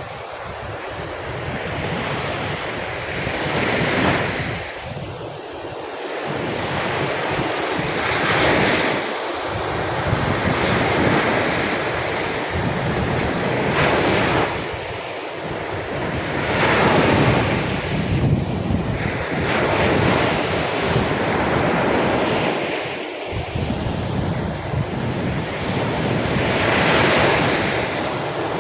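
Surf breaking on a beach in stormy weather, the waves rising and falling every few seconds. Strong wind buffets the microphone with a gusty low rumble.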